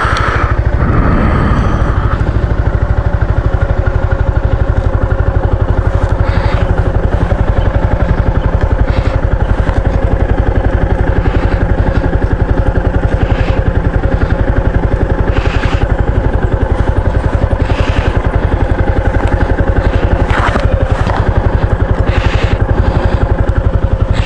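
Maxi-scooter riding at a steady speed: a steady engine drone, with a brief falling tone about a second in and a few short knocks scattered through.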